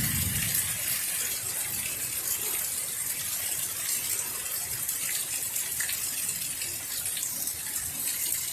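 Steady heavy rain falling, a dense hiss speckled with fine drop ticks. A low rumble dies away in the first half-second.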